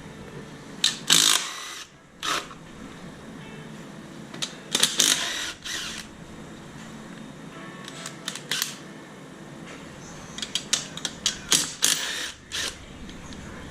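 Irregular clicks, clanks and short scraping bursts of hand tools and metal parts being worked on the car's engine, with a few louder clusters about a second in, around five seconds in, and near the end.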